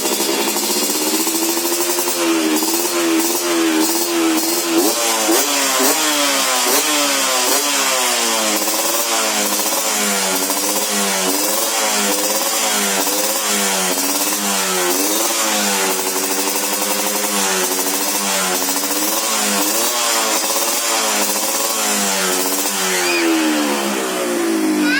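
Yamaha RX King two-stroke single-cylinder engine revving through an aftermarket 'telo' racing exhaust: held near a steady pitch at first, then blipped up and down in quick, even throttle stabs about once a second, settling again near the end.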